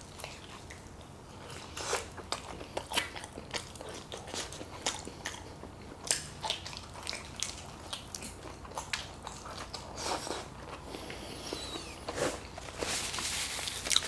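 Close-miked biting and chewing of a pepperoni pizza slice: many small wet clicks and smacks of the mouth. Near the end, a paper napkin rustles against the lips.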